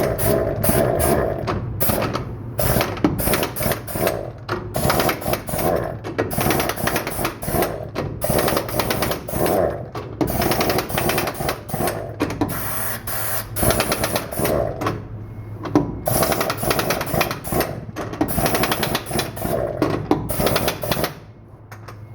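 Pneumatic impact wrench hammering on wheel lug nuts in repeated rattling bursts with short pauses between them, running the truck wheel's nuts on tight.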